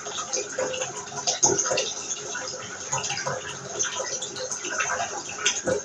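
Bath tap running into a tub: a steady rush of water with irregular small splashes.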